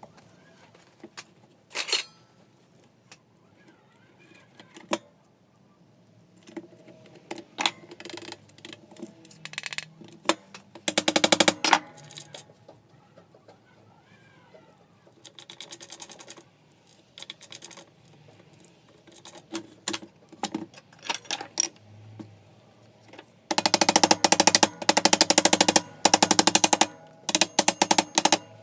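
Electric screwdriver run in short bursts while screws on a belt sander's housing are driven or backed out, giving a fast rattling clicking. The longest burst comes near the end. Between bursts there are single clicks and clinks of parts and screws being handled.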